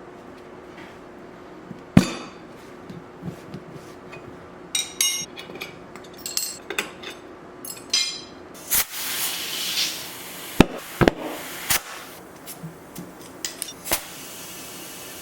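Irregular sharp metal knocks and clinks of hand tools, several strikes hammer-like and some ringing briefly, with a short rush of scraping noise midway.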